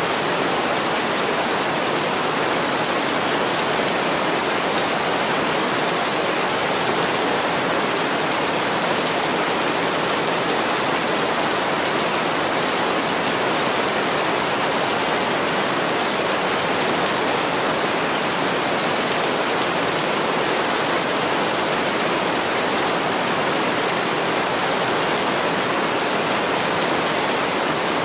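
Heavy rain falling steadily on window glass: an even, unbroken hiss.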